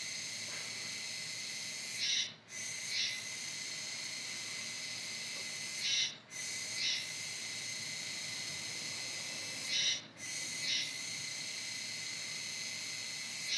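Kuroiwa tsukutsuku cicada singing: a steady, high buzz that about every four seconds swells into a louder 'juwa' phrase, breaks off for a moment and picks up again.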